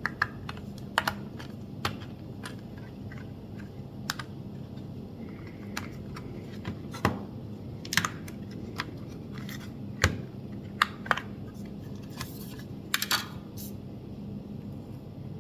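Plastic back cover of an original Nintendo Switch being worked off the console by hand: irregular sharp clicks and taps of plastic, with a brief scrape and a quick cluster of clicks about twelve to thirteen seconds in.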